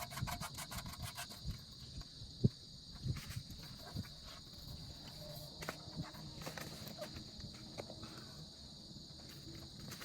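Scattered clicks and light metal knocks from hand work on the oil drain plug under the car, with a run of rapid clicks in the first second or so and a single sharp knock about two and a half seconds in. A steady high-pitched insect chirr runs behind it.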